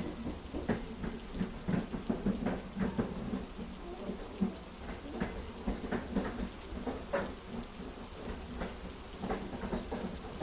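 Heavy rain falling, with many irregular sharp taps of drops over a continuous low rumble.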